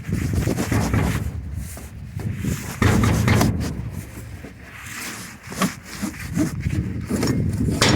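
Irregular rubbing and scraping as a new hydraulic tailgate cylinder is worked out of its shipping packaging, with a sharp knock at the very end.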